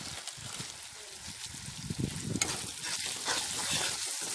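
Masala paste frying and sizzling in a kadhai while a flat steel spatula stirs and scrapes it against the pan. The sizzle gets louder a little past halfway.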